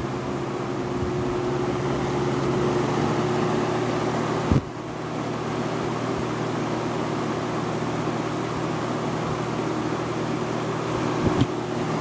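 1971 Monarch Aire 20-inch box fan running, unserviced: its McMillan motor hums steadily under the rush of air from the blades. There is a sharp click about four and a half seconds in, with a brief dip in level, and another couple of clicks near the end.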